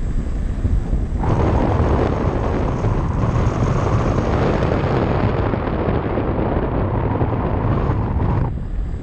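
Wind buffeting the action camera's microphone during a ride: a steady low rumble, with a louder rushing hiss that starts abruptly about a second in and cuts off shortly before the end.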